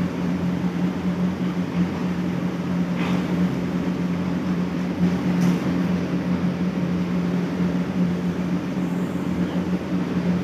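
Steady machine hum with a constant low pitch and an even noise behind it. A faint brief higher sound comes about three seconds in.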